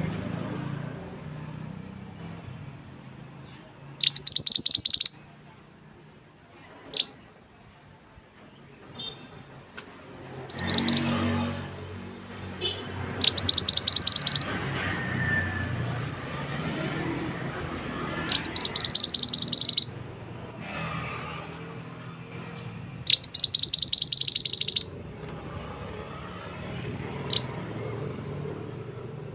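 Mantenan songbird singing: five loud, high-pitched rapid rolling trills of a second or two each, with a couple of short single chirps between them, over a low background hum.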